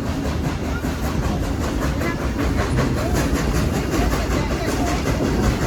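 Steam-hauled excursion train in motion, heard from aboard a passenger car: a steady rumble and clatter of the cars running on the track.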